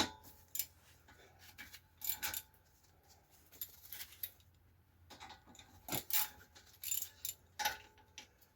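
Small metal parts and hand tools clinking and tapping against each other in scattered, irregular knocks, some with a brief metallic ring: bolts and sockets being handled during brake caliper removal.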